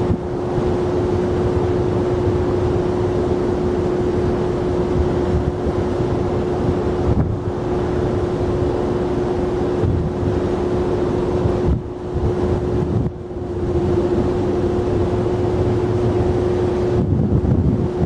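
Steady rumble of jet airliner engines at the airport, mixed with wind buffeting the microphone. A steady hum runs under it and cuts off about 17 seconds in.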